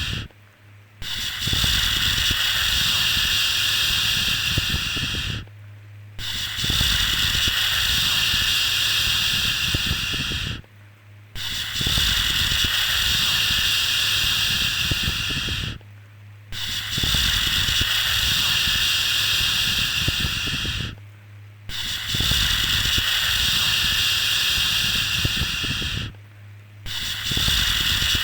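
A drawn-out "shhh" shushing sound for soothing a baby, repeated about every five seconds: each shush lasts about four and a half seconds, with a brief pause between them.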